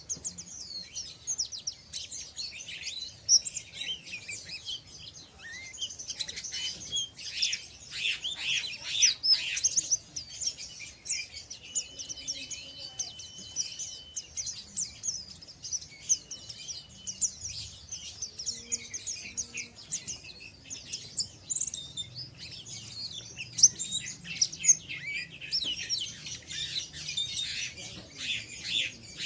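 Pleci (white-eye) birds twittering in a rapid, almost continuous high chatter of short chirps, the fast 'ngeriwik' twitter, with one held whistle about halfway through.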